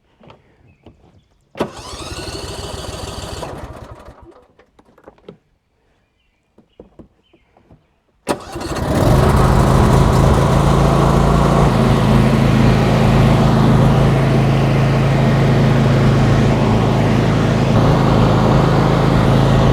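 Lawn tractor engine being started: a first try of about two seconds, rising in pitch and then dying away. After a pause with a few small clicks, it catches about eight seconds in and runs loudly and steadily.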